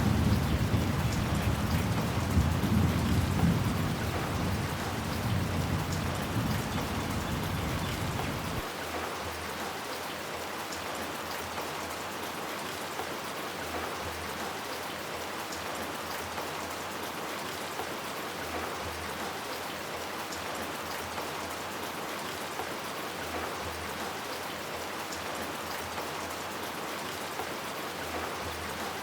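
Steady rain falling, with a low rumble of thunder at the start that fades and then cuts off suddenly about eight seconds in, leaving only the even hiss of the rain.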